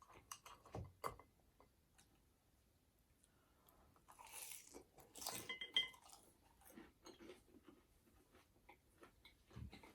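Faint chewing and mouth sounds of someone eating ramen noodles, with small scattered clicks and a louder, noisier stretch about four to six seconds in.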